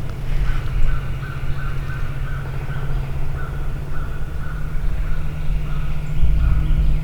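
Wild turkey yelping: a long, even series of notes, about two or three a second. A steady low rumble underlies it.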